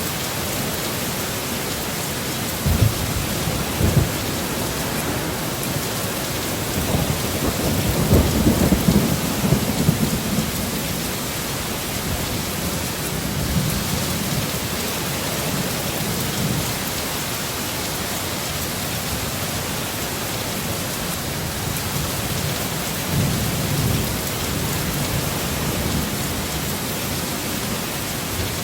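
Steady heavy rain with thunder rumbling low beneath it: two short claps about three and four seconds in, a longer roll around eight to ten seconds in, and a lighter one later on.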